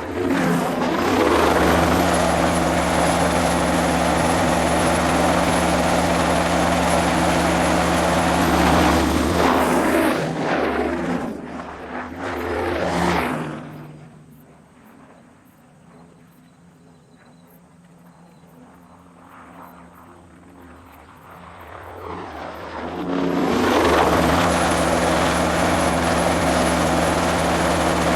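Bell 206B-3 JetRanger III helicopter turbine and rotors running, a steady loud drone with a high, thin turbine whine. It falls away to a faint hum about halfway through and comes back up near the end.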